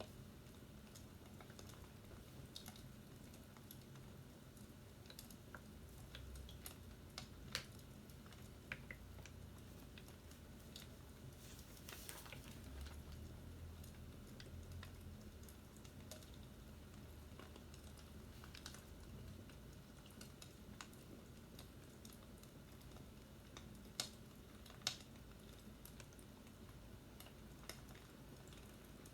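Faint, scattered light clicks and taps over a low steady hum, with a couple of sharper clicks close together near the end.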